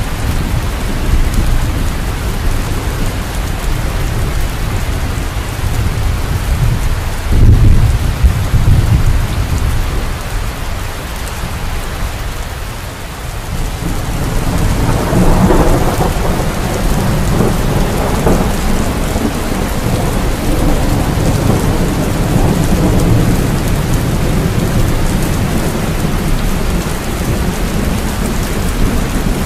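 Steady heavy rain with rolling thunder: a deep clap of thunder about seven seconds in, and another long rumble rolling in from about halfway through.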